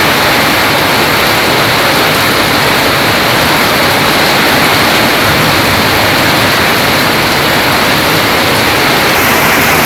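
Heavy rain pouring down in a dense, steady rush during a kalbaishakhi thunderstorm.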